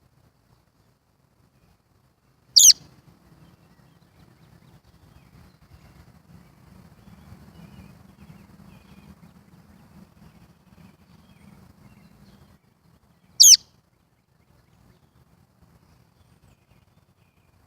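A baby bird chirping twice, about eleven seconds apart, each a short, loud, high call that wavers downward. A faint low rumble runs between the two calls.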